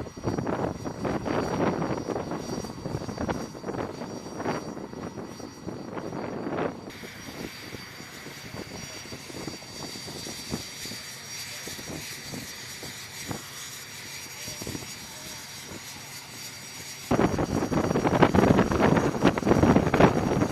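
T-45 Goshawk jet trainer's single turbofan engine on a carrier flight deck: loud, fluctuating jet noise. About seven seconds in it cuts abruptly to a quieter stretch with a steady high whine, and about seventeen seconds in the loud noise returns just as abruptly.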